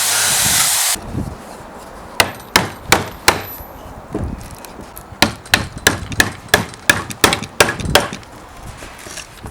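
A loud steady hiss cuts off about a second in. Then comes a series of sharp hammer blows on wood: four quick strikes, a short pause, and about nine more at around three a second.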